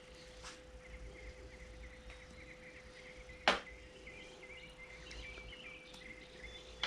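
A single sharp click about halfway through, with a fainter one near the start, over a steady faint hum and insects chirping faintly.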